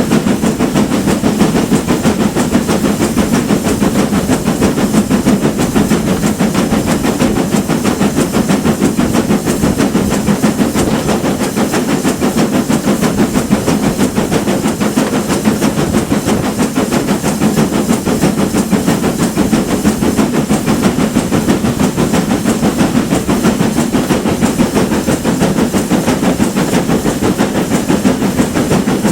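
Steam train hauled by a GWR Manor class 4-6-0 locomotive, running steadily along the line. The sound is continuous and unbroken, a low dense rumble with a hiss over it, without pauses or stops.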